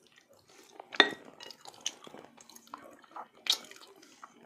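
Close-up eating sounds: wet mouth clicks and smacks while chewing, with a few sharp clinks of dishware, the loudest about a second in with a short ring.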